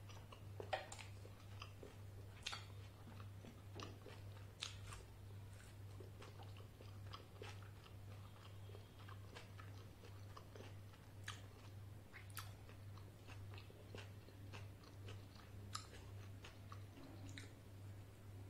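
A person chewing and biting soft luchi (puffed fried bread) dipped in ghugni: faint, irregular wet mouth clicks and smacks. A steady low hum runs underneath.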